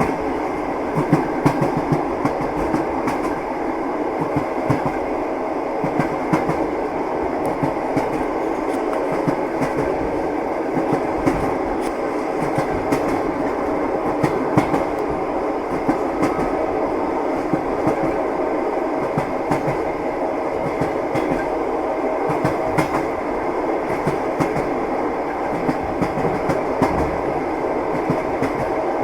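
Train wheels clattering over the rail joints, irregular knocks over a steady running rumble.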